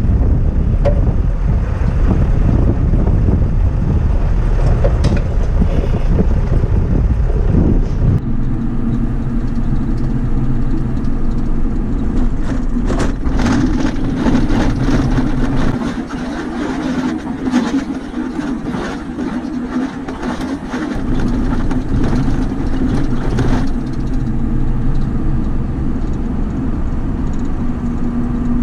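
Truck engine running steadily. Strong wind buffets the microphone for the first several seconds, then the engine hum comes through clearly, with a run of clicks and rattles in the middle.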